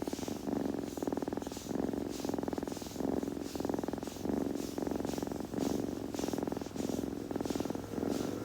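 A kitten purring close up: a steady, fast rumbling pulse that swells and eases with each breath in and out, a little more than once a second.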